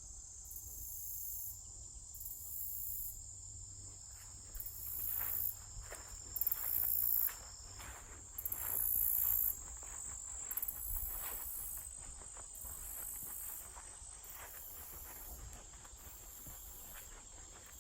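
Summer insects in woodland: a steady high drone, with a still higher chorus pulsing in on-off bursts about a second long. From about four seconds in, footsteps on a forest path.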